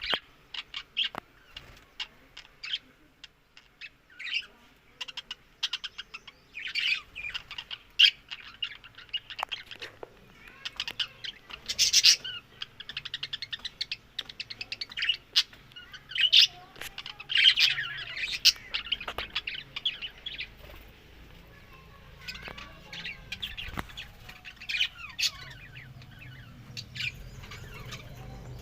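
Budgies chirping and chattering in quick runs of short, sharp calls, busiest in the middle. Near the end the calls thin out and a low hum comes up.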